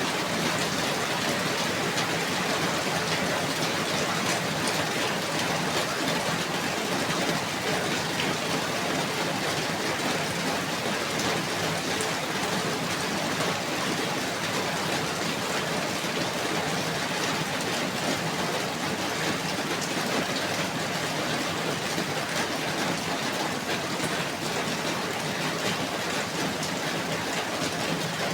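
Steady rainfall, a dense even hiss of drops with fine scattered pattering.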